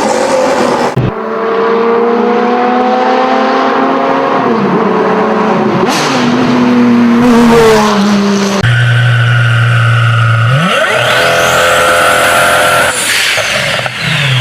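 V12 sports car engines at high revs across separate clips: a note climbing steadily under acceleration and then dropping as the engine shifts, then, after a cut about nine seconds in, another car holding a steady high engine note.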